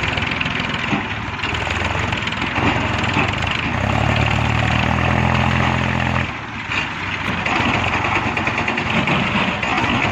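Mahindra B275 Bhoomiputra tractor's three-cylinder diesel engine running while pulling a heavily loaded manure trolley. A steady, deeper engine note stands out for a couple of seconds around the middle, then dips briefly.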